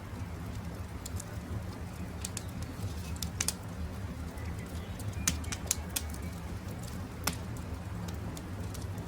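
Wood campfire crackling, with scattered sharp pops over a low steady rumble, and birds calling in the background.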